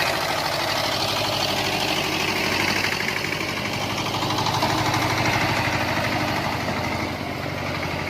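Soviet T-25A tractor's two-cylinder air-cooled diesel engine running steadily, its firing strokes a rapid even beat.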